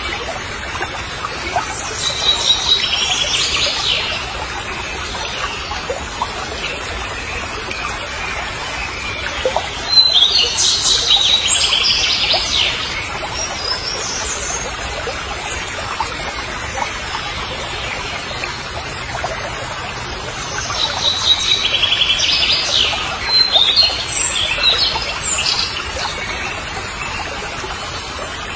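Birds chirping and calling in three spells of several seconds each, over steady background noise.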